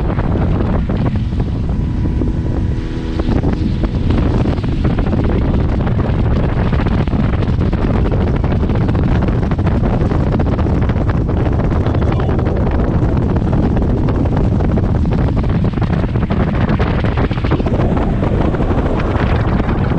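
Motorboat running under way at speed: the engine's steady drone mixed with heavy wind buffeting on the microphone. A faint steady hum of several tones rises over it for a few seconds near the start.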